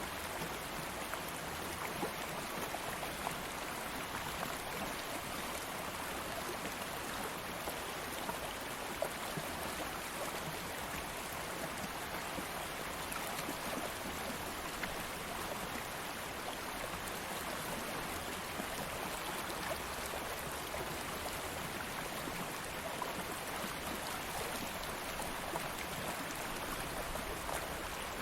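Stream of water flowing steadily, a constant rushing and burbling with small splashes scattered through it.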